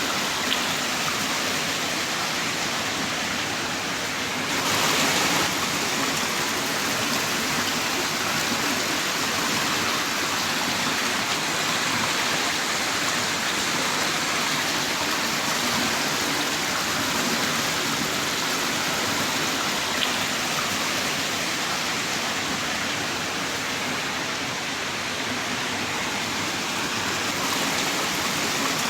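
Heavy rain downpour, a steady dense hiss of falling rain, briefly a little heavier about five seconds in.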